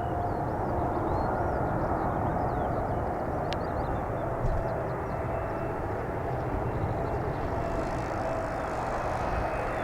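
Boeing 777 freighter's twin GE90 jet engines on arrival: a steady rush with a faint steady whine. Small bird chirps sound in the first few seconds.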